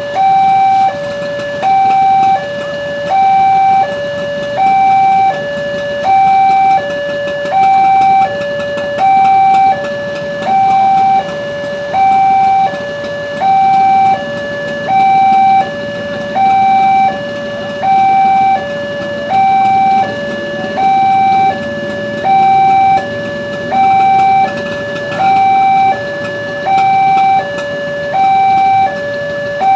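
Indonesian railroad level-crossing warning alarm sounding continuously: an electronic two-tone signal alternating between a higher and a lower note, one cycle about every second and a half, warning that a train is approaching and the barriers are down.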